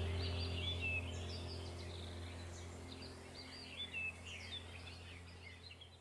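Birds chirping and singing in short repeated phrases over a low steady hum that slowly fades away.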